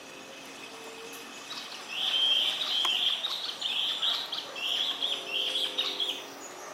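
A bird singing a rapid, chattering run of high chirps for about four seconds, starting about two seconds in, over a faint steady outdoor background hum.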